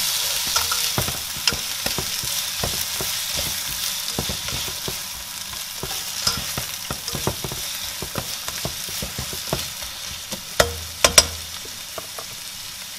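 Chopped onion, garlic, ginger and whole spices such as cinnamon sticks sizzling in hot oil in a nonstick pot, stirred with a slotted spatula, with many small crackles and scrapes. The sizzle softens gradually. A few sharp knocks come near the end.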